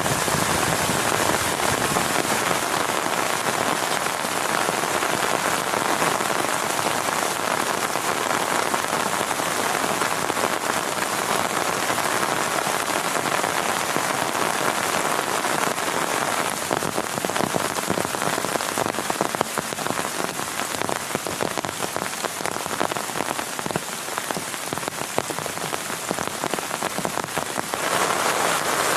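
Heavy rain falling steadily as a dense patter of drops. It eases slightly for about ten seconds past the middle, then picks up again near the end.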